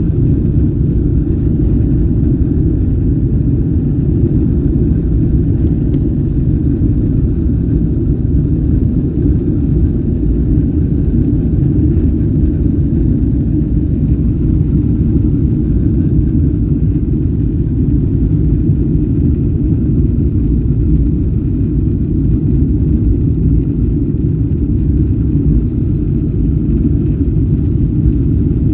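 Jet airliner heard from inside the passenger cabin: a loud, steady low rumble of engines and rushing air, with a faint hum running through it.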